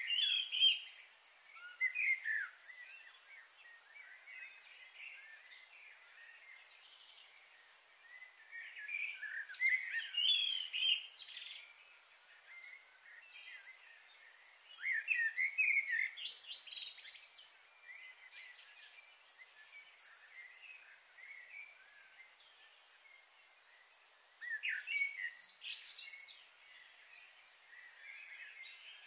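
Birds singing and chirping in short bouts of a couple of seconds, several seconds apart, over a faint steady background hiss.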